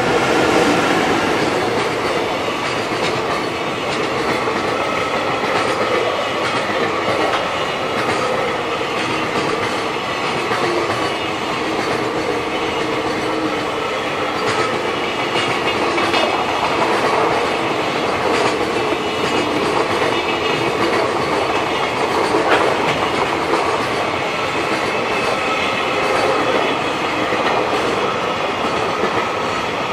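JR Freight EF210 electric locomotive passing at close range, followed by a long string of Koki 104 container flatcars rolling by, their wheels clattering over the rail joints. The noise peaks as the locomotive goes past near the start, then holds loud and steady.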